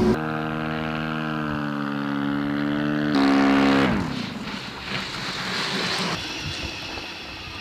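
Engine of a Shadow unmanned aircraft running with a steady buzzing drone. About three seconds in it switches abruptly to a louder, higher-pitched note, which then drops in pitch and fades as the aircraft moves away.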